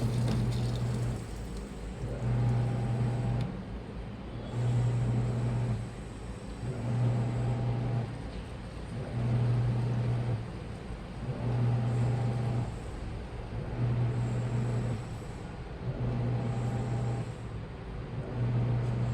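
Washing machine motor running in short bursts, a low hum for about a second at a time and repeating every two seconds or so, as the wash cycle turns the load one way and then the other. A different, higher hum cuts off just as the bursts begin.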